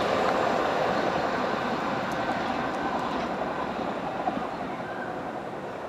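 Class 395 Javelin electric multiple unit running away along the track, its wheel-on-rail and motor noise fading steadily as it recedes.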